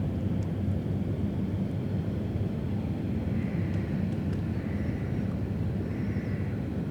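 Steady low rumble of distant city and river ambience, with three faint short high tones in the second half.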